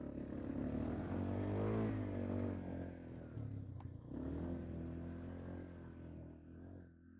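Quad bike (ATV) engine revving under load. Its pitch climbs about a second in and falls back, then it revs again after a sharp click about four seconds in, easing off near the end.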